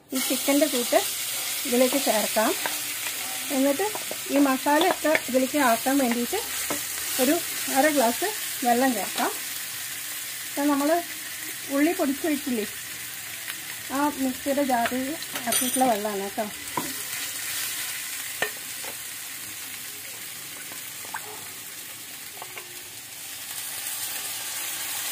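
Marinated chicken pieces sizzling in hot oil in a frying pan, the sizzle starting sharply as the chicken goes in and running steadily. Over the first two-thirds it is stirred, with many short pitched scraping sounds.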